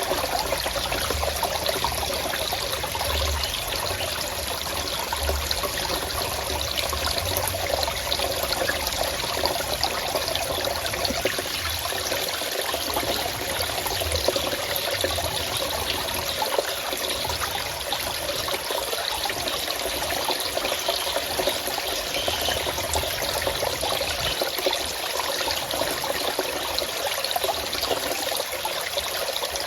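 Forest stream trickling and flowing steadily.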